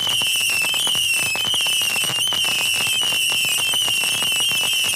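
Consumer fireworks crackling overhead in a dense, irregular stream of small pops, under a sustained high, wavering whistle.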